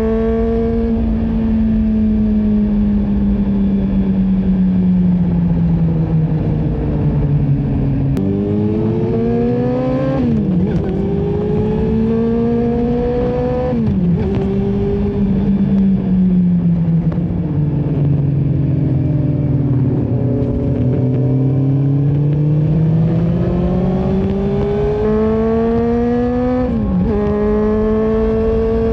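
Honda CB400SF's inline-four engine through a Yoshimura full exhaust, on the move: the engine note sinks slowly as the revs fall, then climbs again, with several sudden drops in pitch between the climbs.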